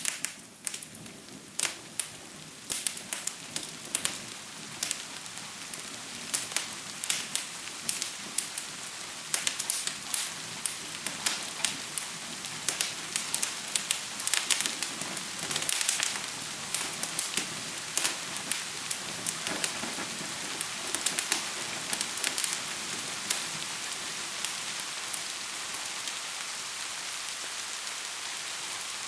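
Wood fire crackling with frequent sharp pops over steady rain. The rain's hiss grows a little over the first several seconds, and the pops thin out near the end.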